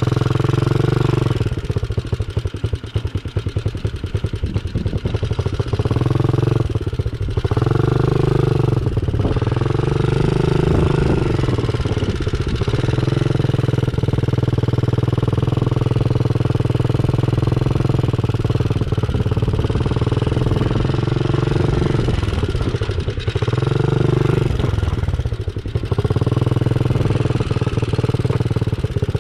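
Small dirt bike engine running close by, its pitch rising and falling again and again as the bike speeds up and slows.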